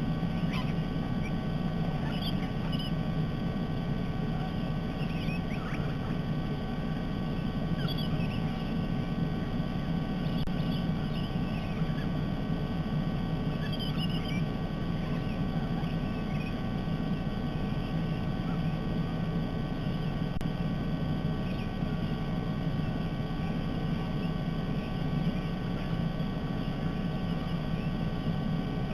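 Steady low outdoor background hum, with faint short bird calls scattered over it, mostly in the first half.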